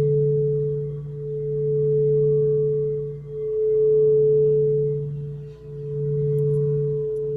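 Quartz crystal singing bowls ringing in a sustained drone of two steady pure tones, one low and one higher, swelling and fading in slow waves about every two seconds.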